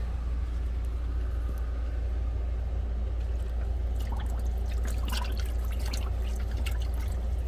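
Water splashing and sloshing as clothes are pushed down into the half-filled wash tub of a mini twin-tub washing machine, with a run of short splashes and clicks from about four seconds in, over a steady low hum.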